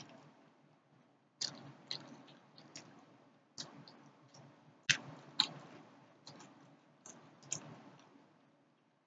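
Close-miked chewing of fried tilapia with the skin on: sharp wet mouth clicks and smacks come every half second to a second, then stop near the end.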